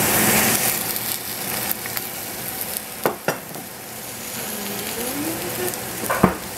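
Sliced zucchini sizzling in oil in a stainless saucepan: a frying hiss, loudest at first as the oil is poured in, then steady. A few sharp clicks come around the middle and near the end.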